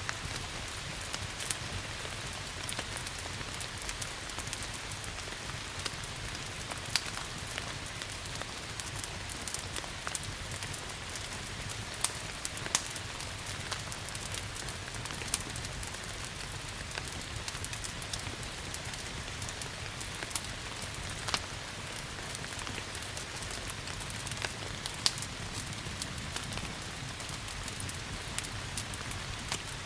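Steady rain hiss together with a wood fire crackling, sharp irregular pops and snaps scattered through it, a few louder than the rest.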